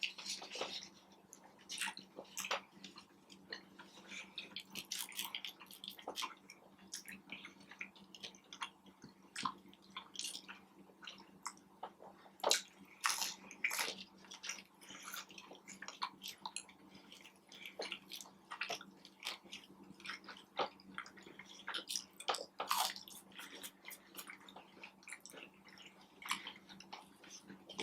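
Close-miked mukbang eating of a fast-food sandwich: chewing with wet mouth clicks and smacks at an irregular pace, a few of them louder, over a steady low hum.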